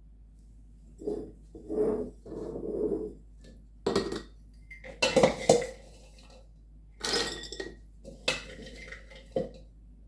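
Irregular clinking and clattering of glass quart canning jars and kitchen utensils as raw cranberries are portioned into the jars, with a few sharper knocks of glass.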